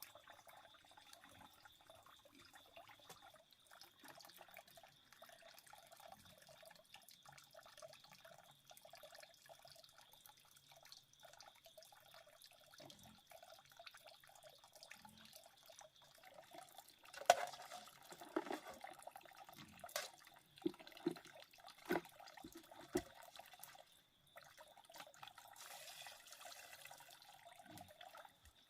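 Faint trickling stream water, with a cluster of sharp knocks and splashes a little past halfway.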